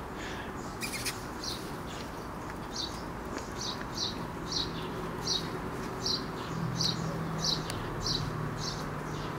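A small bird chirping over and over, short high notes at about two a second. A low steady hum comes in about two-thirds of the way through.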